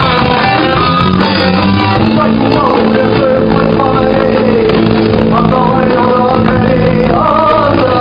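A rock band playing live: guitars over bass and drums, with a gliding melodic line carried on top.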